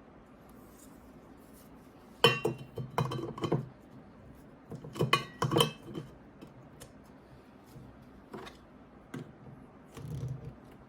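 Glass cold brew coffee pitcher being handled and set down, clinking and knocking. It comes in two clusters, about two seconds in and again about five seconds in, with a few lighter taps near the end.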